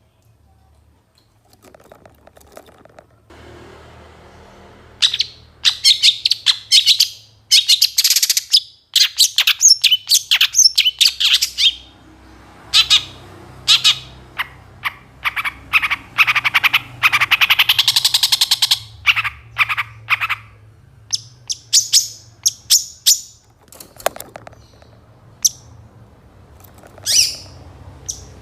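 Long-tailed shrike (pentet) singing a fast, varied song of high chirps and trills mixed with mimicked calls. The song starts a few seconds in, comes in bursts that are densest in the middle, then thins to scattered single calls.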